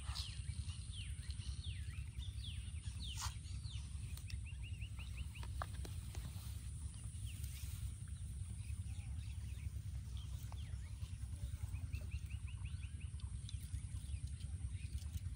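Small birds chirping in quick falling notes, with two short rapid trills of evenly spaced notes, one a third of the way in and one near the end, over a steady low rumble.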